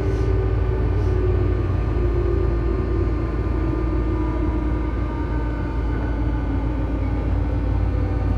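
Interior running sound of a Tobu 9000 series electric train, heard from above motor car MoHa 9204's armature chopper controller. A steady low rumble of wheels and motors is overlaid by several chopper and traction-motor tones that slowly fall in pitch. This car's chopper is known for making an abnormal noise.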